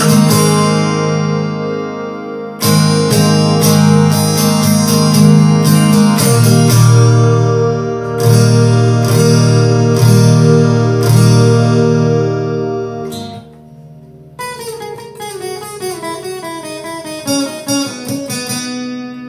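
Acoustic guitar played through a chorus pedal: fast rhythmic strummed chords that stop about two-thirds of the way through, then after a short gap a run of picked single notes moving downward.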